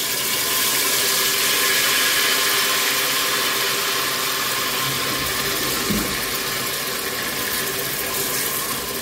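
Onions and meat frying in oil in a stainless steel pot, sizzling steadily as grated tomato is poured in, the sizzle slowly easing off. A short knock about six seconds in.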